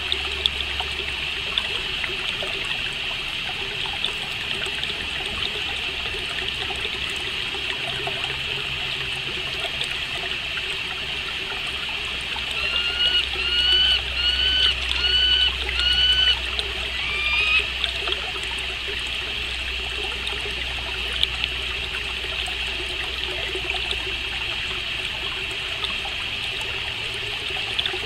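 Steady trickle of flowing water, like a small stream. About halfway through, a songbird sings a series of about six short rising notes.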